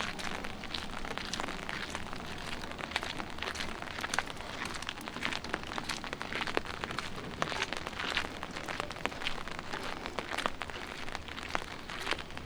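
Light rain: many small, irregular drop ticks pattering on hard surfaces over a steady hiss.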